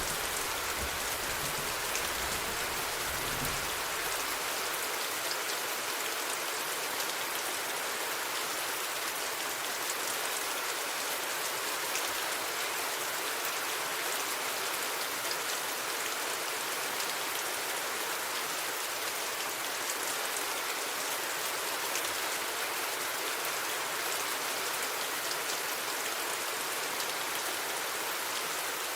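Steady rain falling, an even hiss of drops. A low rumble of thunder dies away in the first few seconds.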